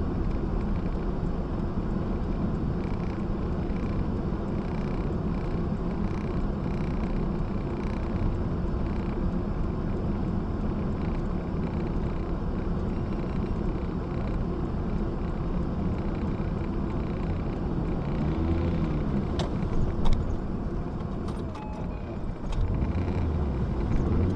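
Steady low rumble of a car engine and cabin noise heard from inside the car, with a brief rise and fall in engine pitch and then a single sharp knock about twenty seconds in.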